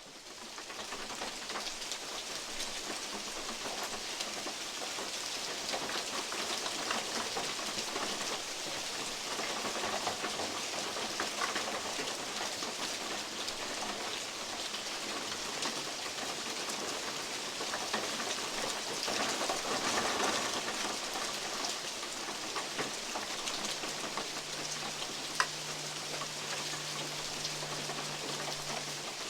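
Rain and big drops from oak leaves falling on a metal roof: a dense patter of small taps over a steady hiss, with one sharp, louder tap near the end. A faint low hum joins in during the last few seconds.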